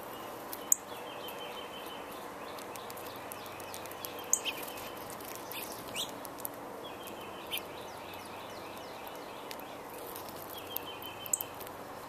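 Wild birds calling over a steady outdoor background hiss. Several short trills of quickly repeated notes come a few seconds apart, and a few sharp, high, very short notes stand out above them.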